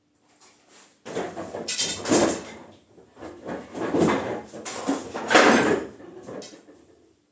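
Irregular scraping and clattering of objects being handled, in several louder surges, with no motor running.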